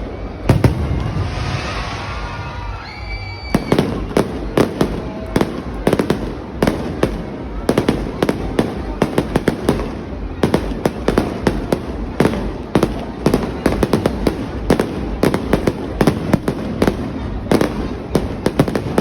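Fireworks going off: a rapid, dense run of sharp bangs and crackles, nearly continuous from a few seconds in.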